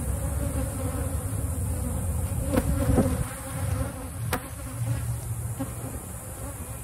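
Honeybees buzzing around an opened hive, a dense, steady hum, with two sharp clicks about two and a half and four seconds in.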